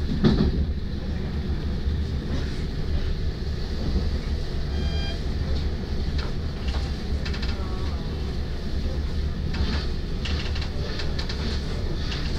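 TER regional train running at speed, heard from inside the carriage: a steady low rumble with scattered clicks from the track and a short louder burst right at the start.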